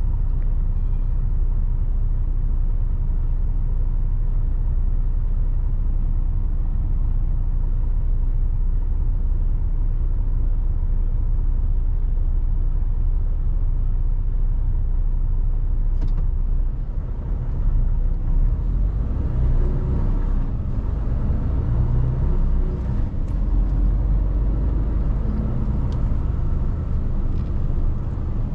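Mercedes Actros truck's diesel engine and road noise while driving, a loud low drone. About two-thirds of the way through, the note becomes more uneven, with a few faint clicks.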